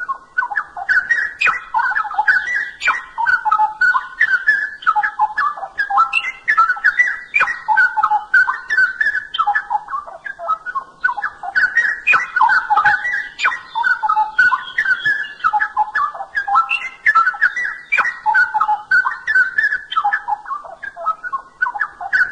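Straw-headed bulbul (cucak rowo) singing a loud, continuous song of rich bubbling, whistled phrases that follow one another without pause.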